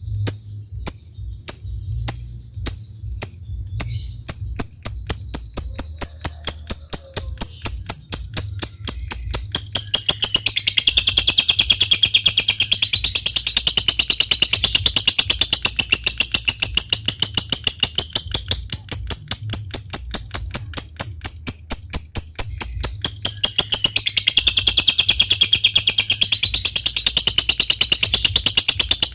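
A lovebird giving sharp ticking calls (ngetik) that quicken steadily into a long, rapid, high-pitched chattering trill (ngekek panjang). The trill thins briefly about three-quarters of the way through, then picks up again. A steady low hum runs underneath.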